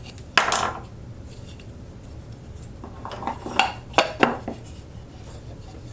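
Hard wooden and metal pieces being handled as a freshly glued wooden box is unclamped and taken apart to check the glue-up: a sharp knock about half a second in, then a quick run of clicks and clatters around three to four seconds in.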